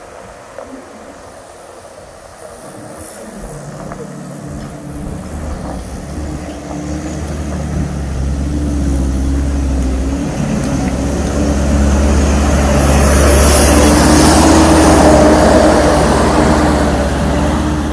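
A heavy diesel truck engine pulling hard on a steep climb. It grows steadily louder as the truck comes closer and is loudest in the last few seconds.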